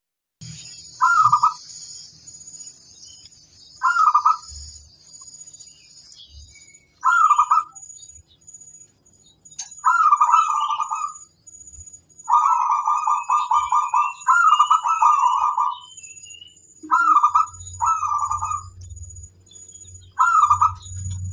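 Zebra dove (perkutut) cooing: short trilled coos every few seconds, with longer runs of cooing in the middle, and faint high twittering from other small birds behind.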